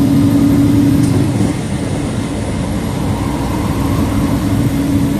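Semi truck's diesel engine droning steadily while pulling a heavy load and bogging down. The drone drops a little about a second and a half in, then returns.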